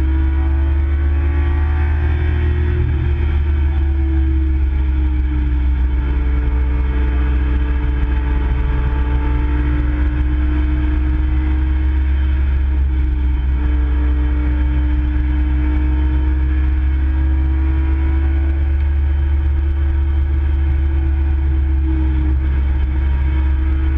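Nissan Skyline GT-R KPGC10's S20 twin-cam straight-six running hard, heard from inside the cabin over a heavy low rumble. The engine note dips about three seconds in, climbs slowly, then drops a little again near the end.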